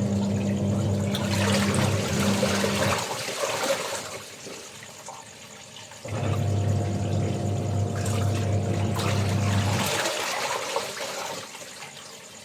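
Water running and splashing during laundry, with an electric motor humming in spells of a few seconds: it runs for about the first three seconds, stops, then runs again from about six to ten seconds in. A faint, steady high insect trill sounds underneath.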